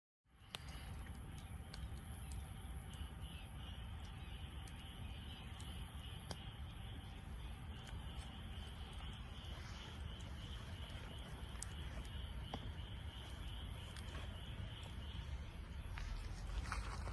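Wood fire burning in a Snow Peak fire pit, crackling with scattered sharp pops over a steady low rustle, with a steady high insect chirring in the background.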